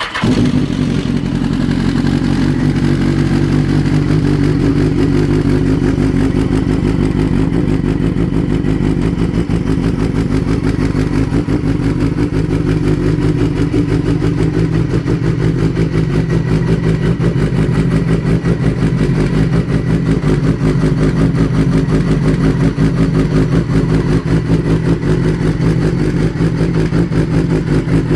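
BMW HP4 sport bike's inline-four engine idling steadily just after a cold start in freezing air.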